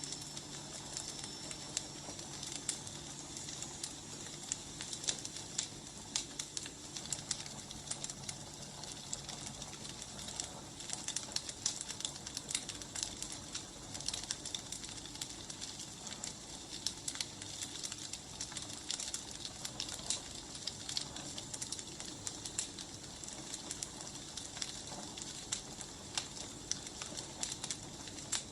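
Firewood burning, crackling and popping with many small irregular snaps over a steady soft hiss.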